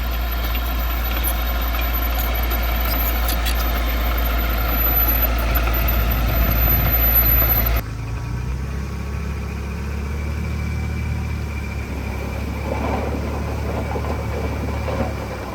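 Heavy-equipment diesel engines running steadily. About eight seconds in the sound switches abruptly to a slightly quieter engine note.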